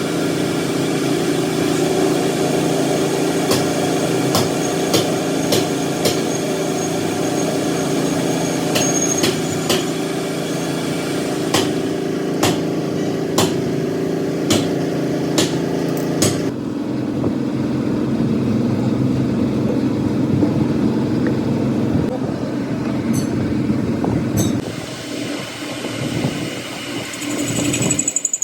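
Workshop machinery running with a steady hum, with sharp knocks about once a second, then an abrupt change about two-thirds in to a different, quieter steady machine sound.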